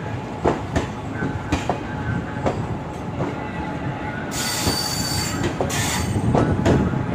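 Passenger coaches of an Indian Railways express train rolling past as it departs a station, their wheels clacking over rail joints, often in close pairs about once a second, over a steady rumble. About four seconds in, a high-pitched hissing squeal rises over it for a second or so.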